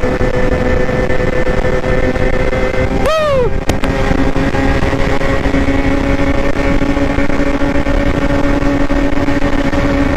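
Motorcycle engine running at steady, high revs, with one quick throttle blip about three seconds in that rises and drops back.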